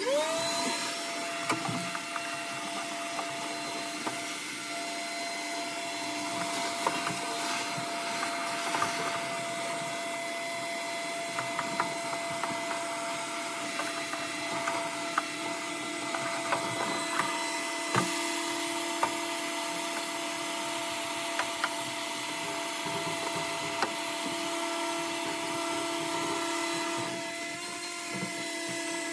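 Vacuum cleaner switched on, whining up to speed within the first half second and then running steadily while it sucks up debris. Scattered clicks and rattles come through, with a sharper click about eighteen seconds in.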